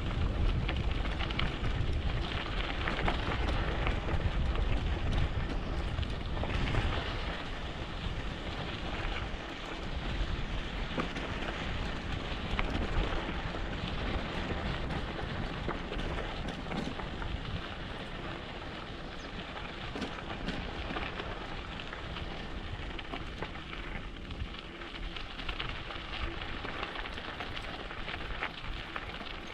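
Mountain bike tyres rolling over a rough dirt and gravel trail, with wind rumble on the microphone. It is somewhat louder in the first several seconds.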